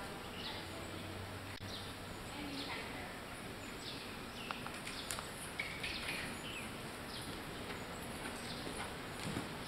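Small birds chirping over and over in short falling calls, above a steady background hiss.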